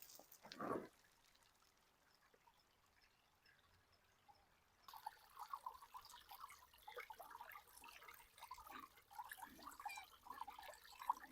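A brief crunch near the start, then near silence, then from about five seconds in a shallow wadi stream trickling and bubbling over rocks, starting abruptly.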